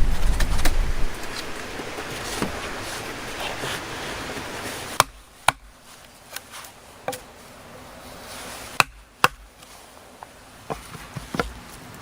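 Steady rushing outdoor noise, then from about five seconds in a series of sharp, single knocks at uneven intervals, about eight in all.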